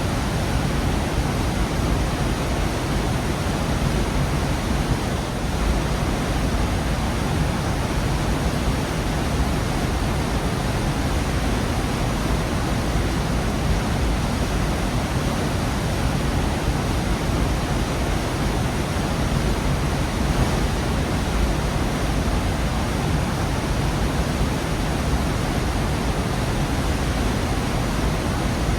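Waterfall in a rocky gorge, water falling and rushing in a loud, steady, unbroken roar.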